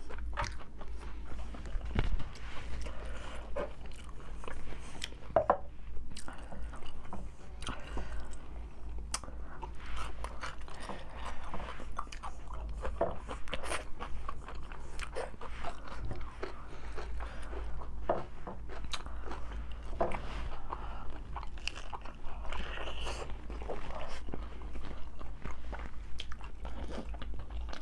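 Close-miked biting and chewing of tacos, with many short, crisp crunches throughout.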